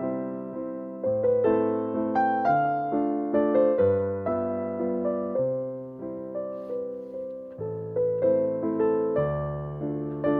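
Background piano music: a slow, gentle melody of single notes that each fade away, over low held bass notes.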